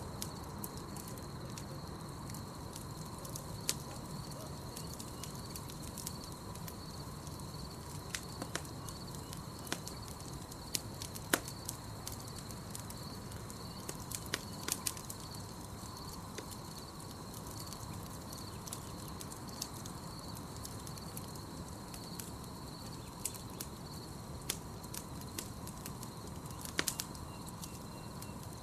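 Campfire crackling, with sharp pops at irregular intervals, over a steady high chirping of night insects and a low steady rush.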